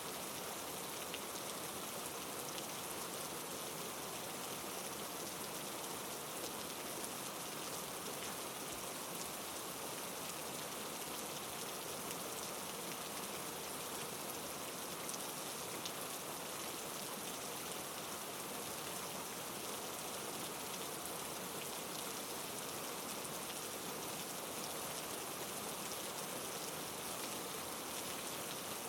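Heavy rain falling steadily: an even hiss with faint scattered ticks of individual drops.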